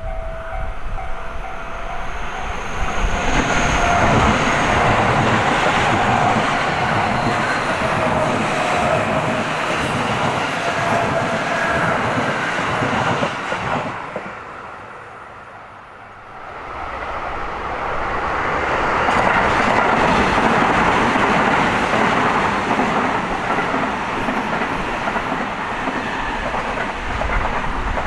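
Electric trains on the JR Kyoto Line running past a level crossing, loud for about twelve seconds. It drops briefly about fifteen seconds in, then a second loud passage follows.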